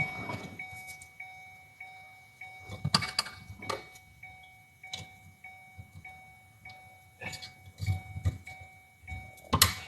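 Scattered clicks and knocks of hands working at a stuck plastic electrical connector in a car interior, with the loudest knock just before the end. A faint steady electronic tone with light regular ticking runs underneath.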